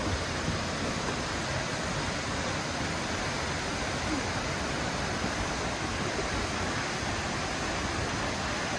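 Steady, even rush of a 55 m plunge waterfall pouring into the pool at its base.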